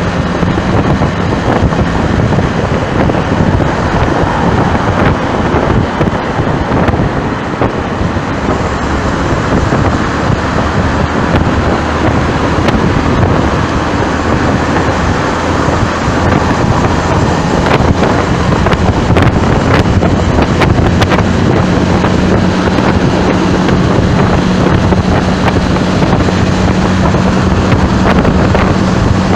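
Heavy wind noise buffeting the microphone in moving traffic, with a steady low engine hum that comes in strongly about two-thirds of the way through.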